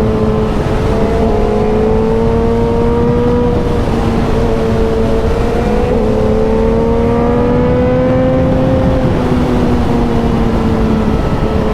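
Suzuki motorcycle engine running at road speed. Its note climbs slowly and drops back a few times, over a heavy rush of wind noise.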